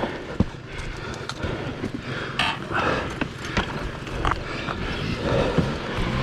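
Scattered knocks, clicks and scuffs on rocky ground, with a low engine note coming in near the end.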